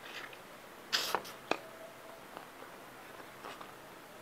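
Close-up eating sounds of a person biting and chewing hilsa fish head with rice by hand: a loud noisy burst about a second in, then a few sharp mouth clicks and soft smacks.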